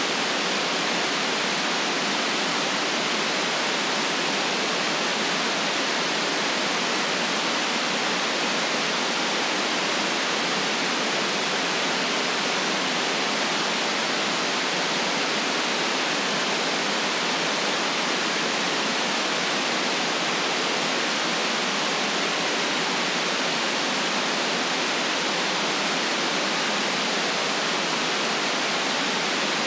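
Steady white noise: an even, unchanging hiss with little deep bass.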